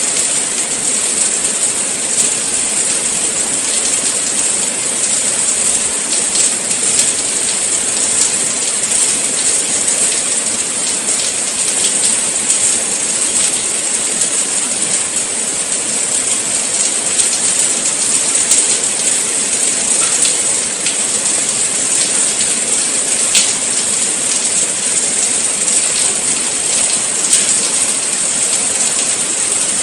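Steady rain falling, with a dense hiss and many small drop ticks.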